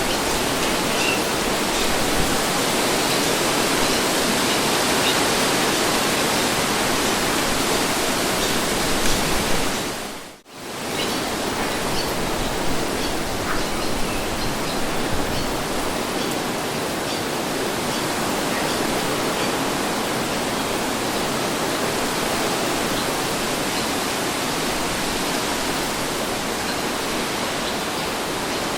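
Steady rushing of wind in a breeze, an even noise with no gusts or tones, dipping sharply and briefly almost to silence about ten seconds in before resuming.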